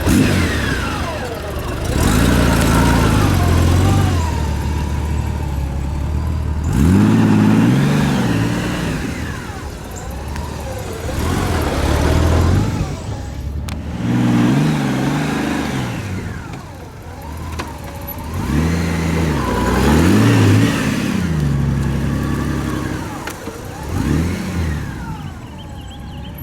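Honda GL1800 Gold Wing's flat-six engine pulling at low speed through tight U-turns, its note rising and falling in several swells as the motorcycle comes and goes.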